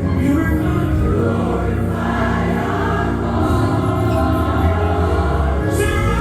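Gospel choir singing with band accompaniment and a steady bass line, with a solo voice sliding up in pitch near the end.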